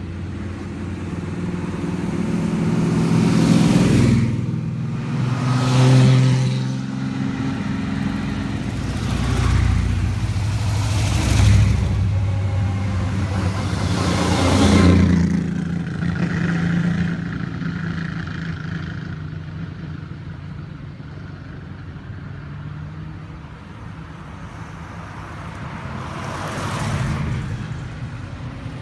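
A string of classic cars driving past one after another, each engine swelling and fading as it goes by, about five passes in all, with a quieter stretch before one last car passes near the end.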